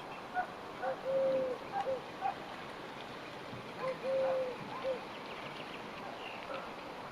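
A dove cooing: a three-note phrase with a long middle note, given twice about three seconds apart, with faint chirps of other small birds in between.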